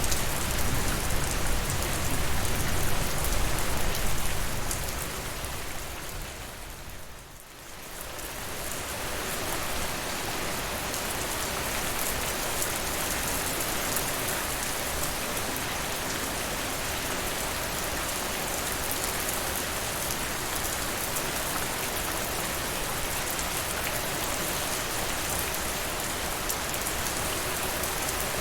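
Steady rain falling on a surface. About seven seconds in it fades down almost to nothing, then swells back and carries on evenly, with less low rumble than at first.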